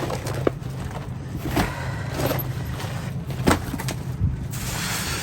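Rummaging through trash in a dumpster: a few sharp knocks and thumps of boxes and items being moved, with rustling between, over a steady low hum.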